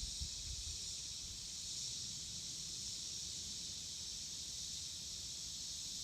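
Steady high-pitched hiss of an insect chorus, with a few low thumps in the first half-second.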